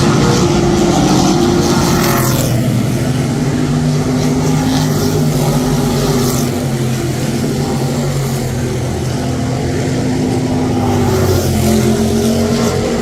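Several car engines running together on a racetrack, with steady tones that rise and fall slightly in pitch.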